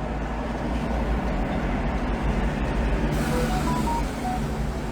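Steady low rumble of a vehicle engine running, with a few short beeps at different pitches about three and a half seconds in.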